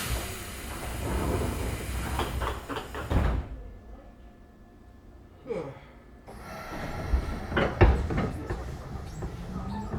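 Keisei 3500-series commuter train standing at a station: door knocks and clatter, a short falling hiss of air, then near the end a rising motor whine as the train starts to pull away.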